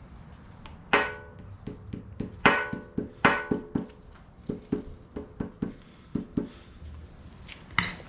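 Hammer blows on steel, each ringing. Three hard strikes come in the first few seconds, then a run of lighter taps, and one more hard strike near the end.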